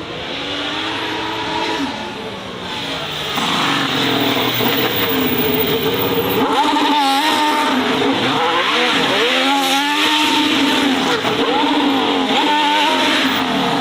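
Race car engine running hard, its revs swinging up and down several times.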